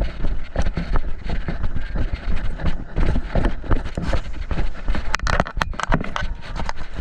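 Footsteps and gear rustling of an airsoft player on the move, picked up close by a body-worn action camera, with a quick cluster of sharp clicks about five seconds in.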